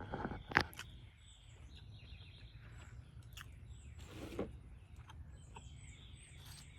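Small birds chirping over faint outdoor background noise, with a sharp click about half a second in and a brief rustling crunch around four seconds in.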